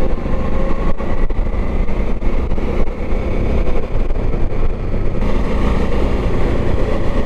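Motorcycle engine running steadily under wind and road noise, heard from on the moving bike. A few sharp knocks come through about a second in and again a couple of seconds later.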